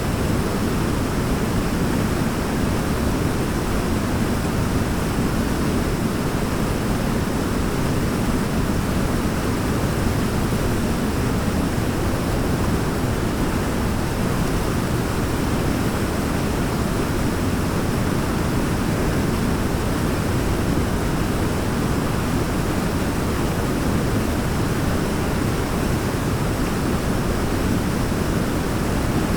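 Waterfall rushing steadily: an even, unbroken noise of falling water, heaviest in the low range.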